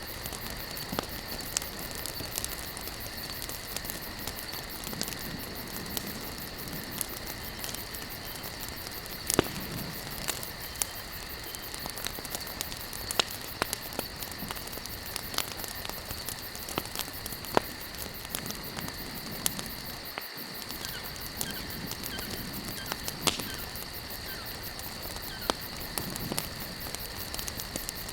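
Wood campfire burning, crackling and popping with frequent sharp snaps over a soft steady hiss and low flame swells every few seconds. A steady high-pitched insect chirring runs underneath.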